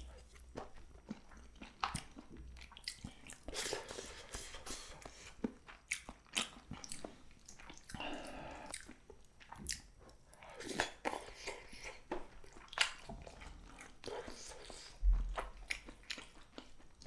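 Close-miked eating sounds of spicy cheese jjimdak: biting and wet chewing with many small mouth clicks. A low thump about fifteen seconds in is the loudest sound.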